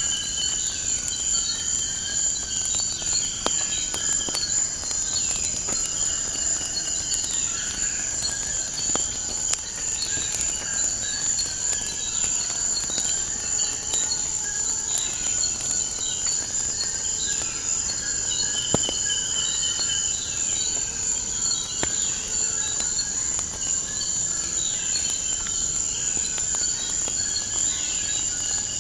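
Crickets trilling in a steady high drone, with birds chirping over it, and scattered sharp crackles from a wood fire.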